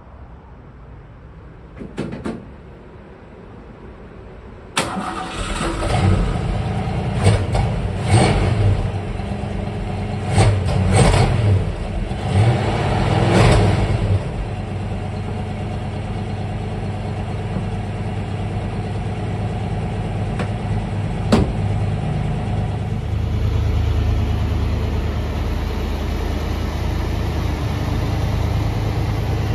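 1966 Ford Mustang engine cold-started, catching suddenly about five seconds in after a couple of faint clicks. It is revved several times over the next nine seconds, then settles to a steady idle.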